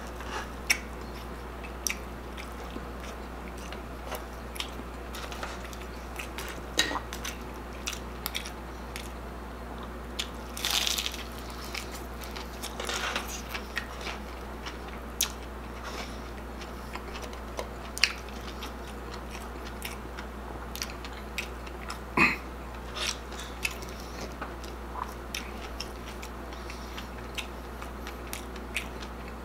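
Close-miked chewing and crunching of food eaten by hand: crispy deep-fried chicharon bulaklak (pork mesentery) with rice, heard as a string of short crisp crunches and wet mouth clicks, with a few longer crunchy bites.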